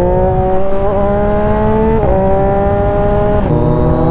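Motorcycle engine pulling hard through the gears: its note climbs steadily, drops at an upshift about halfway, climbs again and drops at a second upshift near the end.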